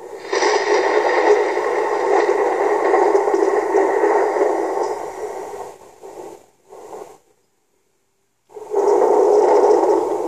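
Loud, steady static-like hiss, thin in the bass, which stutters about six seconds in, cuts to dead silence for about a second, then comes back just as loud.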